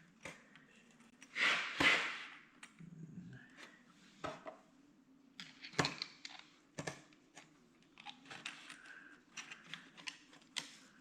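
Small metal hydraulic control valve parts and a washer being handled and fitted together: scattered light clicks and clinks, with a brief scrape about two seconds in.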